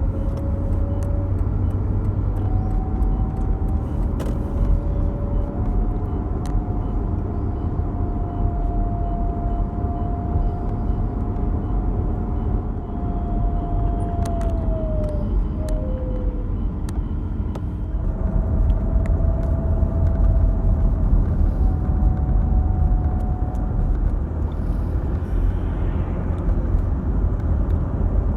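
Mercedes-Benz W210 on the move: a steady low hum with a thin whistle above it that drifts and steps in pitch. This is the unexplained hum and whistle the owners are trying to trace, and switching the air conditioning did not cure it. The sound gets a little louder about two-thirds of the way through.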